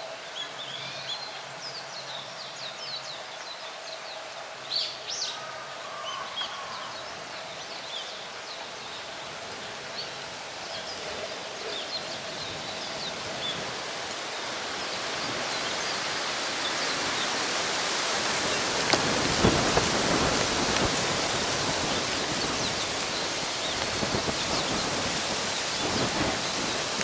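Birds chirping over a light breeze, then from about halfway a strong gust of wind swells into a loud, steady rush through the trees, loudest about two-thirds in and easing only a little toward the end.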